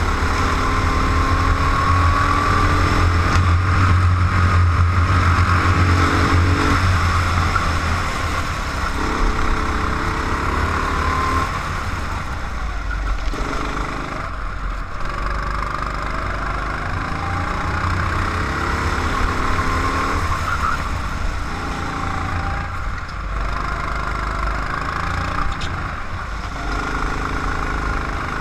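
Car engine heard from on board while lapping a tight circuit. It revs up, then drops back, again and again as the driver shifts gears and brakes for corners.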